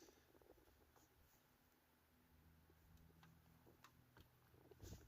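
Near silence, with a few faint scattered clicks and a faint low hum that comes in about two seconds in.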